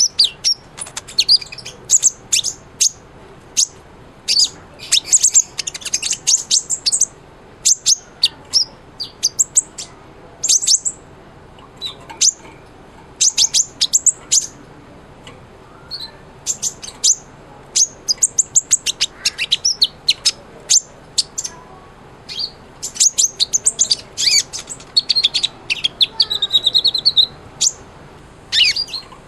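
Kolibri ninja sunbird singing vigorously: rapid series of very high, sharp chirps and short trills in quick bursts with brief gaps, with a faster buzzy trill near the end.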